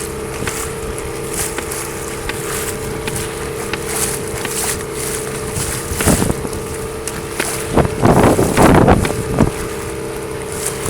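Fishing boat's engine running with a steady hum, under wind noise on the microphone. A louder rushing noise comes about eight seconds in, with a shorter one around six seconds.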